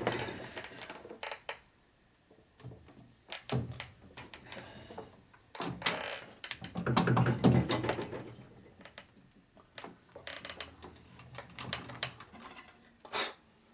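Metal tools and lathe parts being handled while the cutting tool's height is set: scattered clicks, clunks and scrapes, with a louder clatter about halfway through and a sharp knock near the end. The lathe is not running.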